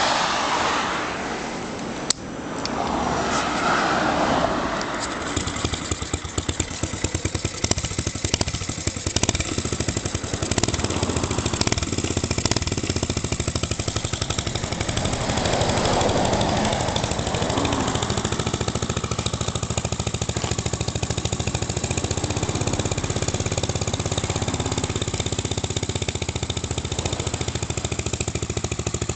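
Small 50 cc motorcycle engine running after starting. It is revved a couple of times in the first few seconds and once more about halfway through, then settles into a steady idle.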